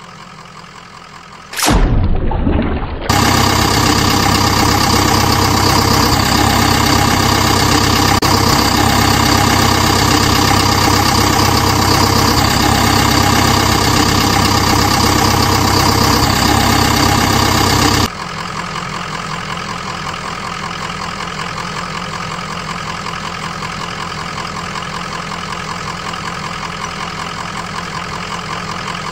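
Sound of a vehicle engine idling steadily, laid over the toy-vehicle footage. A short loud burst comes just before it cuts in a few seconds in, and the idle drops abruptly to a quieter level about two-thirds of the way through.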